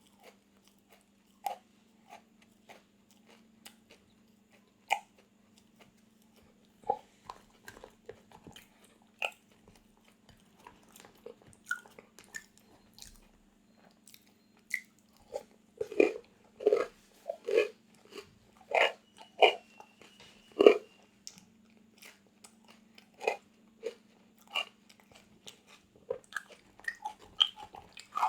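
Close-miked eating: crisp bites and crunching chews of a crunchy snack. The crunches come singly and far apart at first, then thicker and louder about halfway through. A faint steady hum runs underneath.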